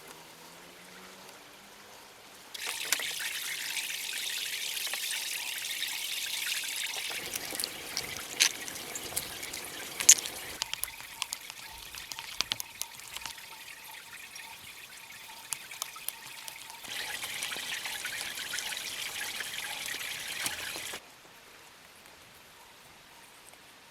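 Water trickling and pouring in two stretches, each starting and stopping abruptly, with scattered clicks and splashes between them.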